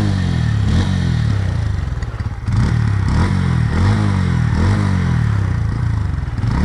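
Bajaj Pulsar N150's single-cylinder engine running at low revs, its pitch rising and falling again and again. It runs smoothly, with no tappet ticking.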